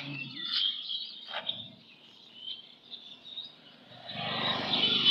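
Small birds chirping in short calls. About four seconds in, a louder rushing noise builds up over them and is the loudest sound near the end.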